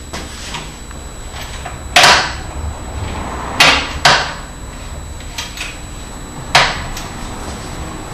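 Four sharp clunks or knocks, the loudest about two seconds in and the others near the middle and later, over a steady low hum.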